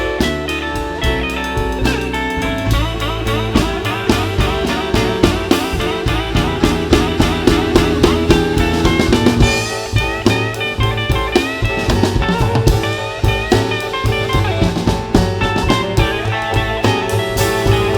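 Live blues band playing an instrumental break with no singing: guitar, drum kit, bass and piano.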